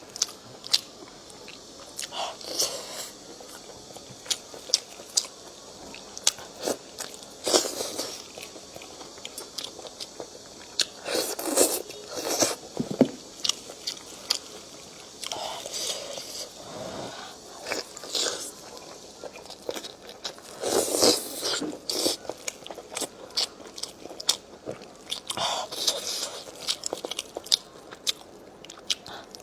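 Close-miked eating: biting and chewing lamb neck and lamb trotters on the bone, with many sharp wet clicks and short noisy bursts every few seconds.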